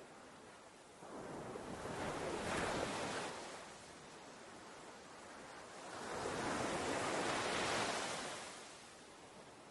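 Ocean waves breaking and washing up a beach: two surges about five seconds apart, each swelling and then falling away to a soft hiss.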